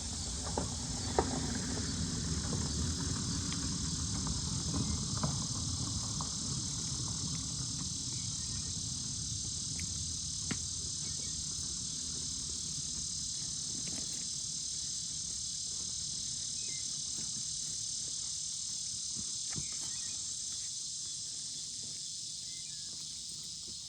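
Steady high-pitched chorus of insects, like crickets, running throughout, with a low rumble in the first several seconds that fades and a few scattered sharp clicks.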